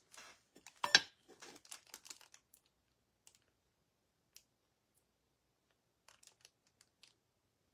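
Small handling clicks and taps of painting tools and the piece being worked on, with one louder knock about a second in, then only a few scattered ticks, more of them near the end.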